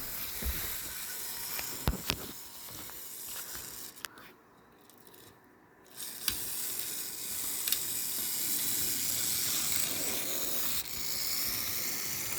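HO-scale model train running on its track: a steady hissing whir with a few sharp clicks, briefly dropping almost to quiet in the middle.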